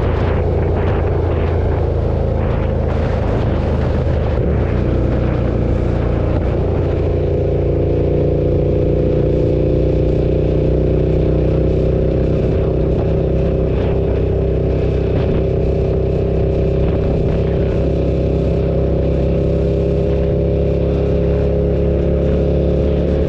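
KTM 1290 Super Duke's V-twin engine running under way on a ride, its note steady and creeping slowly upward in pitch. Wind rush is stronger over the first few seconds, and the engine tone comes through more clearly from about six seconds in.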